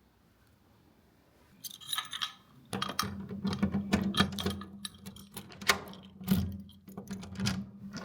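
Small objects being handled, with repeated sharp clicks and clatter, and a steady low electric hum that switches on about three seconds in.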